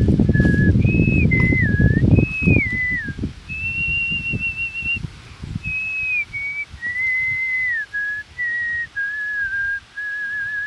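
A person whistling a slow melody: single clear notes, some held and some sliding down, ending on a long warbling note. A low rumbling noise, loudest in the first three seconds, runs under it.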